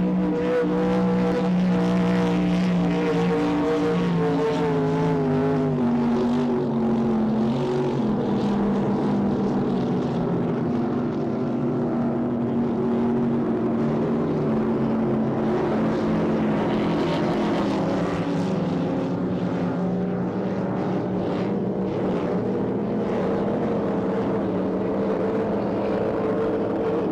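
Offshore racing powerboat engines running at speed: a steady, loud drone whose pitch wavers and slowly drifts.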